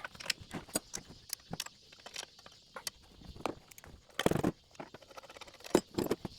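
Irregular clicks and knocks of hand tools and metal parts as the pump's small engine is unbolted and shifted on its frame, with a heavier knock about four seconds in.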